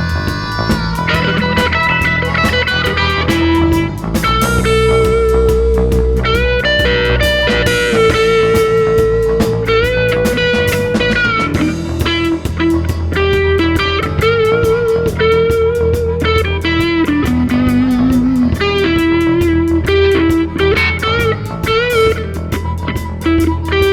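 Instrumental rock music: an electric guitar plays a lead melody with bent, sliding notes over bass guitar and a steady drum beat.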